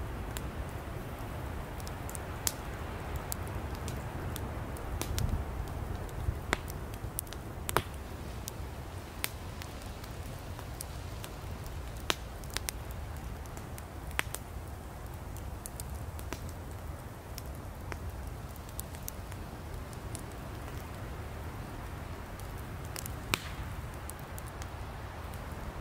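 Campfire of burning firewood crackling, irregular sharp pops and snaps over a steady low rumble of the flames.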